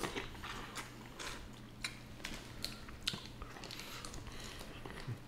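Close-up eating sounds from a seafood boil: chewing and mouth smacks, with scattered short sharp clicks.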